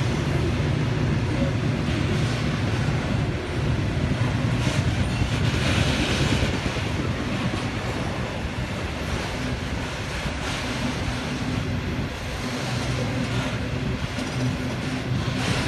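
Covered grain hopper wagons of a long freight train rolling past on curved track: a steady rumble of steel wheels on rail.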